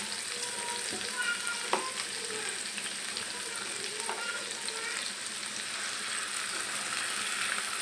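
Chopped yardlong beans and onion frying in hot oil in a nonstick pan, a steady high sizzle, with a spatula stirring through them near the end.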